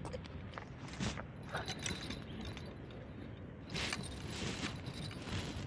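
Fishing reel and tackle being handled: irregular mechanical clicks and rattles, busier in the second half, over a low steady rumble.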